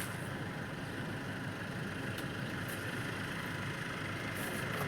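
Tractor engine running steadily, with a few faint high ticks over it.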